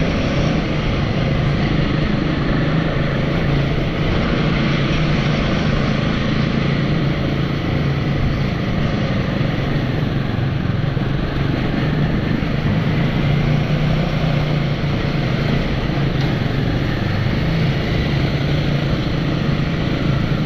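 Royal Enfield motorcycle engine running steadily under way, at an even pace, with wind rushing over the rider's microphone.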